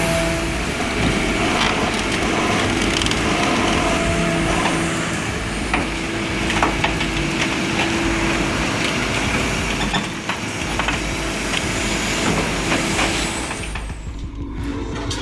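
Cat 320 excavator's diesel engine running under load as the machine climbs onto a truck, with a steady whine and scattered knocks and creaks. The sound changes near the end.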